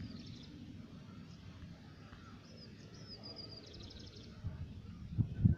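Steady low background noise with a few faint, high bird chirps and a brief trill in the middle, and a couple of low thumps near the end.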